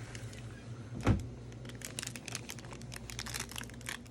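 Light clicking and rustling handling noises, with one dull thump about a second in, over a steady low hum.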